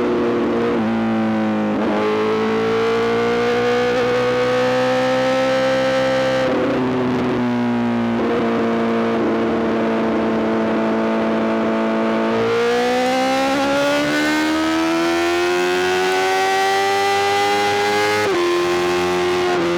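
Honda CBR1000RR-R SP's inline-four engine through an Arrow GP full exhaust, pulling under way. Its pitch climbs slowly, drops suddenly about six seconds in as the revs fall, holds steady, then climbs again before another sudden drop near the end.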